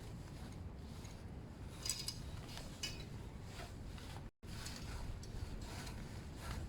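Exhaust heat wrap being pulled through and wound around a motorcycle exhaust pipe in half laps: intermittent scratchy rubbing and rasping of the tape against the pipe, sharpest about two and three seconds in, over a faint steady low hum.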